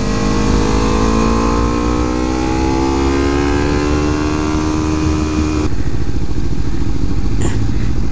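Kawasaki Ninja 300's parallel-twin engine pulling in gear, its pitch slowly rising as the bike gathers speed, over steady wind rush. About five and a half seconds in, the engine note drops away suddenly and only the wind noise is left.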